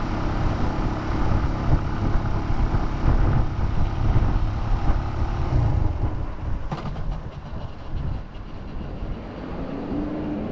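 Suzuki GN125's single-cylinder four-stroke engine running while the bike is ridden, under a heavy low rumble of wind and road noise. The rumble eases after about six seconds, and near the end an engine note rises and then falls.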